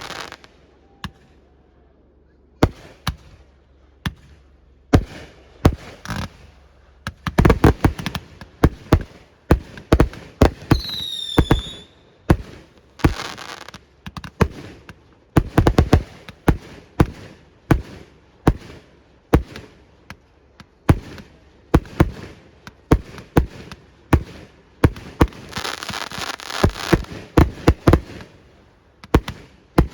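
Fireworks display: aerial shells bursting one after another, about one bang a second, with bursts of crackling between them. About eleven seconds in, a whistling firework sounds. Near the end there is a longer spell of dense crackling.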